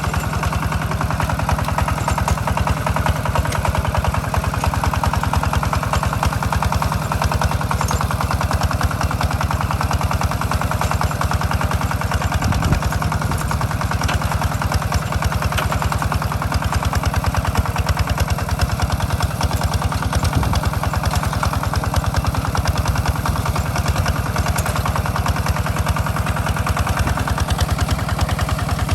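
Single-cylinder diesel engine of a Hinota two-wheel walking tractor running steadily with a rapid, even beat, pulling a plough through a rice field.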